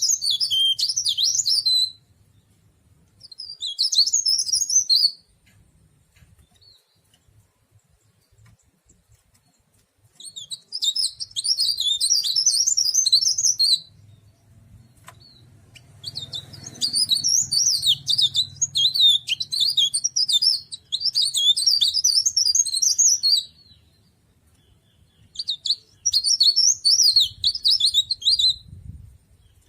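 Cikrak daun, a leaf warbler, singing in bursts of fast, high twittering song. The bursts come in phrases of a couple of seconds with pauses between them, and the longest runs about seven seconds in the middle.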